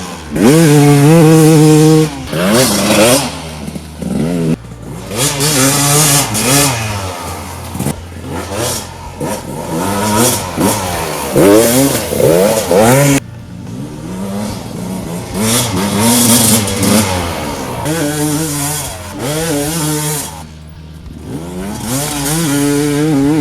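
2018 Gas Gas EC300's 300cc single-cylinder two-stroke engine, breathing through an FMF exhaust, revving up and down over and over as the dirt bike is ridden, its pitch rising and falling with the throttle. The throttle shuts off sharply twice, about halfway through and again near the end.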